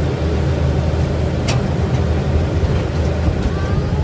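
Miniature train running along its track, a steady low rumble with one sharp click about a second and a half in.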